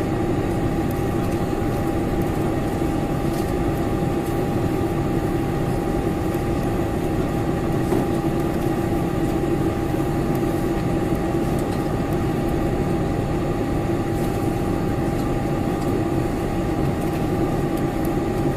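Steady cabin noise inside a Boeing 747-400 airliner: an even rush of engine and air-conditioning noise with a low hum and a faint steady whine.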